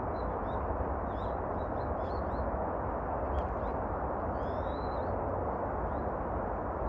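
Small birds chirping, with many short high notes and one longer gliding call about two-thirds of the way in, over a steady rushing background noise.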